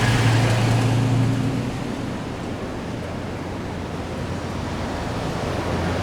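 Road traffic: a vehicle engine hums past, loudest over the first couple of seconds, and another engine hum comes in near the end, over a steady rush of wind and traffic noise.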